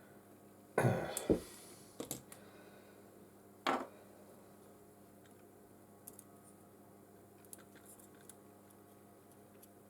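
Small precision tools and parts clicking and tapping during phone disassembly: a short clatter about a second in, sharp clicks near two and four seconds, then a few light ticks.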